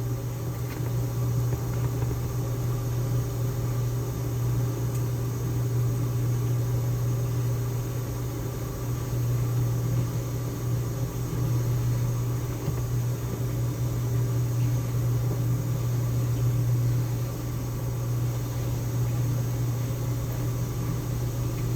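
Steady low mechanical hum from a running appliance motor, unchanging throughout.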